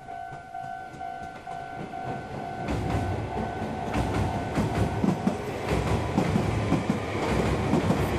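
Red Meitetsu electric train passing over a railway bridge, rumbling, its wheels clacking over the rail joints; the rumble sets in loud about three seconds in. Before that a level-crossing warning bell rings with a pulsing tone, fading under the train.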